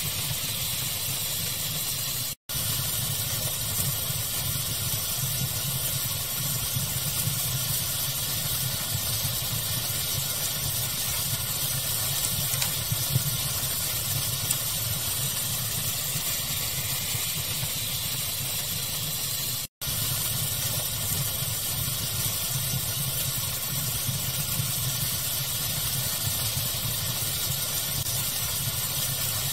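Steady pink-noise hiss mixed with a crackling fire, small sharp crackles popping now and then over the even rush. The sound cuts out to silence for an instant twice, about two seconds in and again about twenty seconds in.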